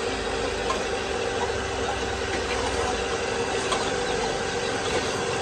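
A small engine idling steadily, with a constant hum and a low, even throb that strengthens about a second and a half in.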